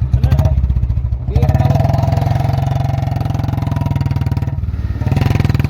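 Motorcycle engine running close by and being revved: it picks up about a second and a half in, holds high for about three seconds, drops back, then revs up again near the end.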